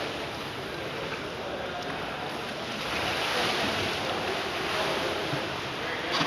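Rushing noise of water splashing, with wind on the microphone, swelling about three seconds in; a single sharp knock near the end.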